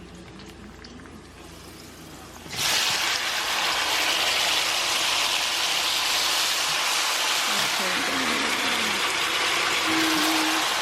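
Chopped tomatoes tipped into a hot pan of oil with frying garlic and serrano peppers: the pan goes from a quiet simmer to a sudden loud, steady sizzle about two and a half seconds in.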